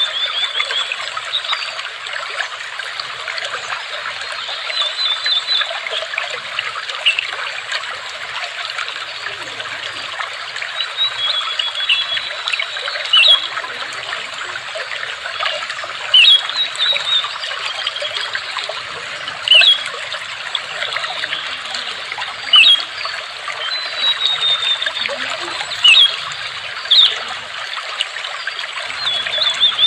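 Water trickling and babbling steadily, with small birds giving short, high chirps every few seconds over it.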